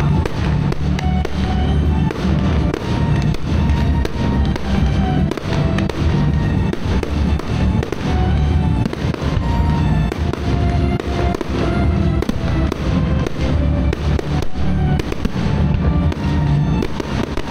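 Aerial firework shells bursting in a run of sharp bangs, over loud music played through the park's PA system.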